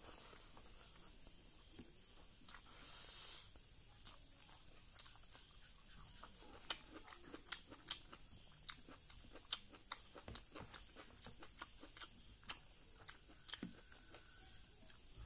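A person chewing rice and fish curry eaten by hand, with wet lip smacks and mouth clicks. The clicks are sparse at first, then come about twice a second from roughly halfway through, over a faint steady high-pitched whine.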